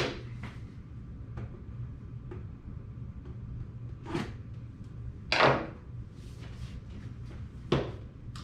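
A few short scrapes and swishes of cardboard and plastic packaging being handled as a CPU is unboxed, the loudest and longest about five seconds in, over a faint low steady hum.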